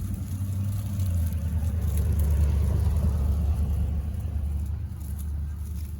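A low, rough rumble that swells to a peak in the middle and then eases off.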